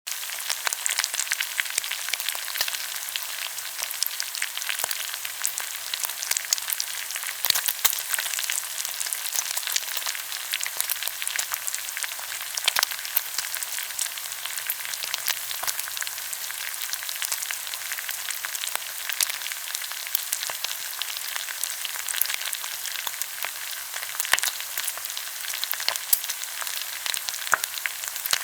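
Pork belly sizzling as it grills in its own fat, a steady high hiss with constant crackles and spits, starting suddenly at the beginning.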